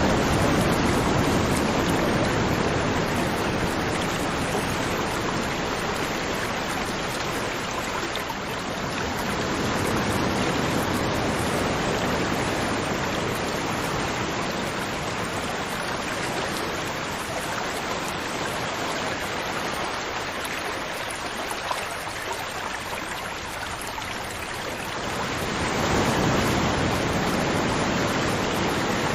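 River water flowing and splashing steadily, swelling and easing in loudness every few seconds.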